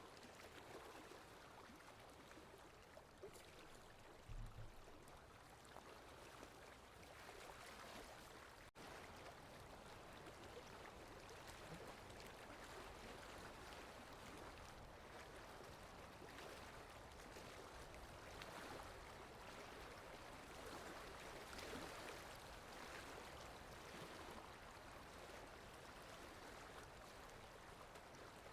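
Faint water lapping with wind, steady and unbroken, with a brief low thump about four seconds in.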